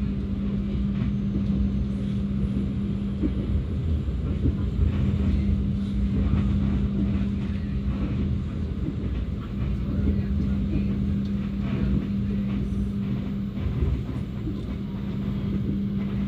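Passenger train running along the track, heard from on board: a continuous low rumble with a steady hum and scattered light clicks and knocks from the wheels and carriage.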